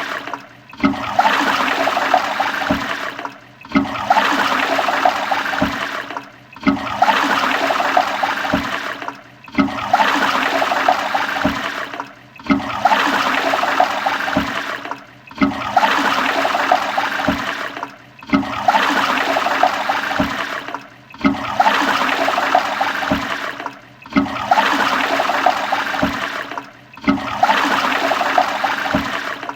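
Toilet flushing, a loud rush of water that repeats about every three seconds, each time with a brief dip before the rush starts again.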